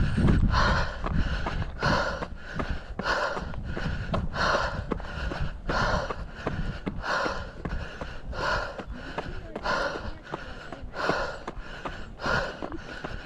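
A runner's hard, rhythmic panting on a steep uphill trail run, about two breaths a second, with footsteps ticking between the breaths. A low wind rumble on the microphone is heard in the first second.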